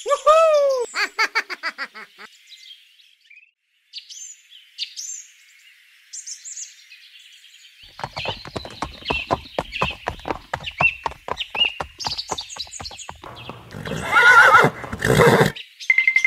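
Added horse sound effects: quick hooves clip-clopping from about halfway, ending in a loud horse whinny near the end. At the start comes a brief falling cartoon exclamation, followed by a few high chirps.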